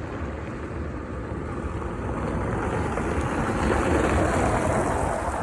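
A vehicle passing on a wet street, its tyre noise swelling to a peak about four seconds in and then fading.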